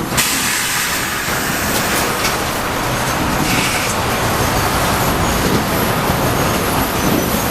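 Sawmill machinery running: a loud, steady, dense mechanical noise that cuts in abruptly at the start.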